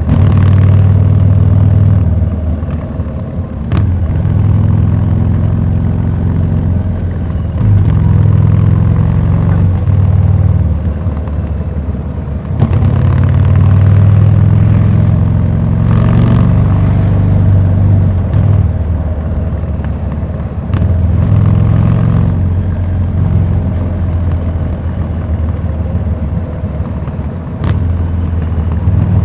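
Harley-Davidson Street 750's V-twin running through a Vance & Hines slip-on exhaust. The loud exhaust note swells and drops several times as the engine speed rises and falls, with short dips about every four to five seconds.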